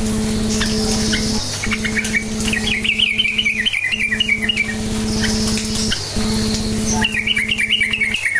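Yellow-vented bulbul chattering, quick bubbly notes in two runs, one early and one near the end, as used to lure other bulbuls. A steady low hum runs underneath, dropping out briefly about every two seconds.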